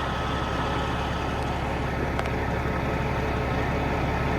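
Peterbilt 379's diesel engine idling steadily while its hydraulic pump raises the dump trailer.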